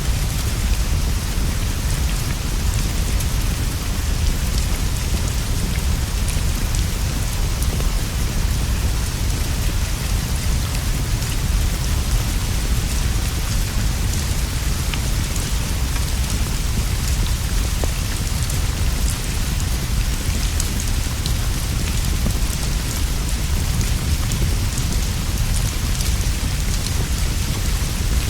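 Steady heavy rain with a low continuous rumble underneath, and faint scattered pops from a crackling fire mixed in.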